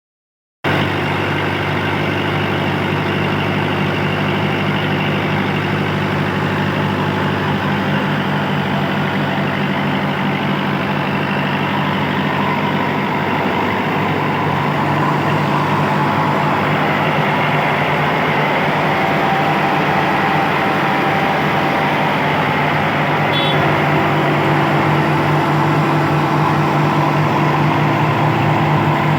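Kubota tractor engine running steadily under load while driving a rice mill, with the mill's dense mechanical noise over the engine note. The sound starts abruptly and the engine note shifts slightly about halfway through.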